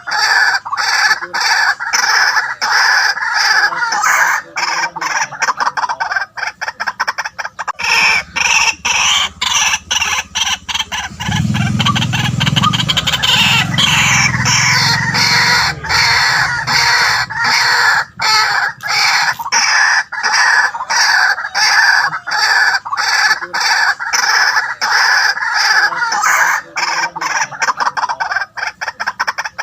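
White-breasted waterhen calling loudly and continuously, a rapid run of short, harsh repeated notes. A lower, drawn-out sound joins for a few seconds in the middle.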